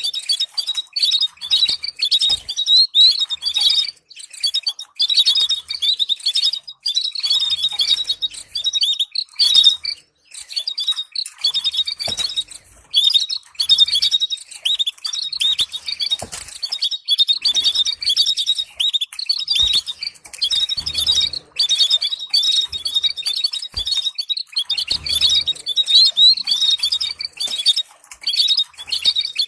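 Canary singing a long, fast song of rapid chirps and trills, broken by short pauses every few seconds: a stimulating training song played to teach caged birds to sing.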